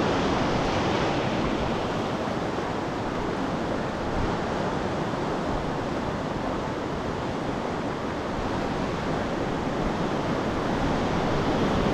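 Steady rushing of whitewater river rapids, heard close to the water.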